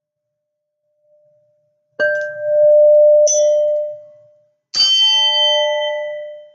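A singing bowl struck twice, about three seconds apart, each strike ringing on at one steady tone with higher overtones. A lighter strike comes about a second after the first, and the second ring cuts off abruptly near the end.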